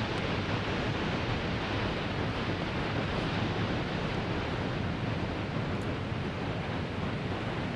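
Steady rushing wind noise on the microphone, unbroken and without change.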